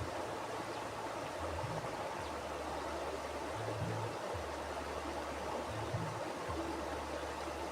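Mountain river flowing over rocks: a steady rush of water, with a low rumble underneath that swells and fades every second or two.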